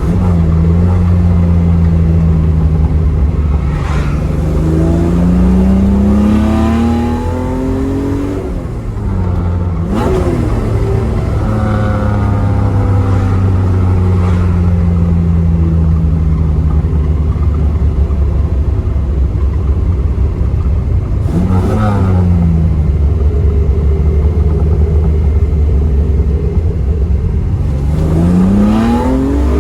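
Datsun Z's modified L28 straight-six on twin SU carbs running through a Z-Story Race/Sport header and Thrush 17715 baffled muffler, heard from the cabin with the window down. The revs rise and fall several times as the car pulls through the gears and eases off.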